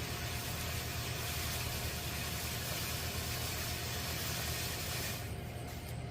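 A firework fountain burning with a steady spraying hiss that dies away about five seconds in as the fountain burns out. A steady low rumble runs underneath throughout.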